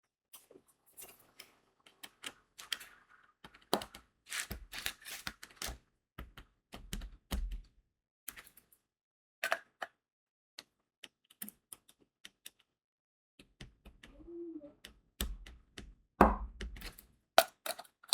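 Crystal diamond-painting drills being set onto the adhesive canvas with a drill pen: irregular small clicks and taps, some coming in quick runs, with a few louder clicks near the end.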